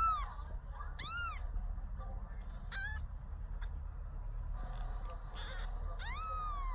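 A week-old kitten mewing: four thin, high-pitched mews, the last one longer, rising then slowly falling in pitch.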